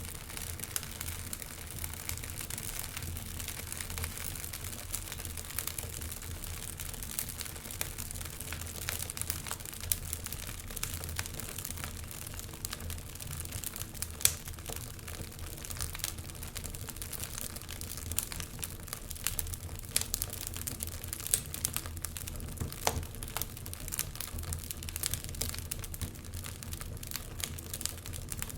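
Wood fire burning in a fireplace, with a steady low rumble of the flames and frequent irregular sharp crackles and pops, one louder pop about halfway through.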